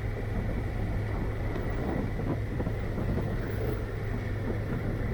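Motorcycle engine running steadily with a constant low hum, under road and wind noise.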